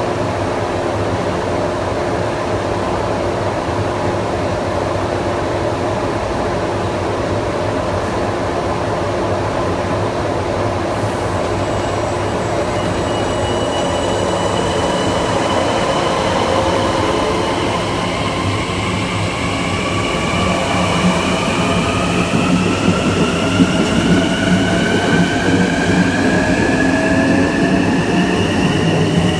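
Kawasaki M9 electric multiple unit's Mitsubishi (MELCO) IGBT-VVVF inverter and AC traction motors, with a steady hum and rumble at first. From about halfway several whining tones rise in pitch together, as the propulsion draws power and the train picks up speed. Wheel clicks come in near the end.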